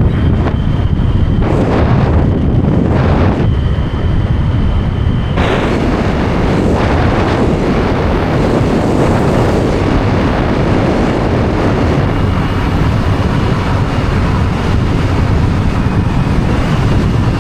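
Heavy wind buffeting the microphone on a moving motorbike, a loud steady rush with the bike's running noise underneath.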